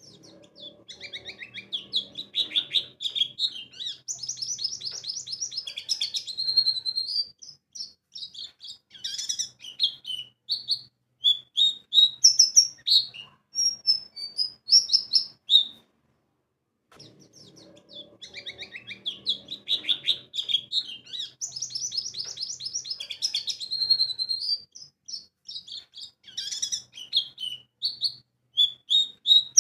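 White-eye (pleci) song: rapid, high, twittering and chattering phrases strung close together. The song is a looped recording: it stops briefly about halfway through, then the same sequence starts again.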